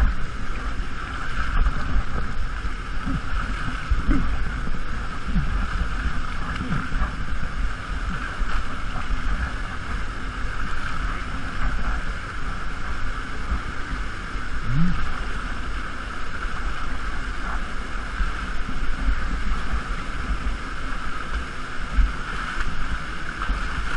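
Steady rush of waterfall and stream water, with irregular low buffets of wind on the microphone.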